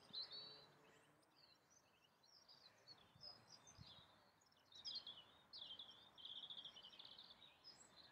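Faint outdoor birdsong: scattered chirps and short trills from small songbirds, with a run of rapid trilled notes from about five seconds in.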